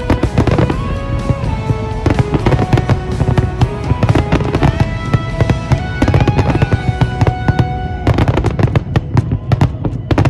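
Aerial fireworks bursting in a rapid, continuous string of bangs, with music playing at the same time.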